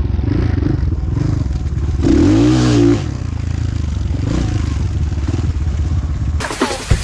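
Dirt bike engine running, with one rev that rises and falls about two seconds in. Electronic dance music cuts in abruptly near the end.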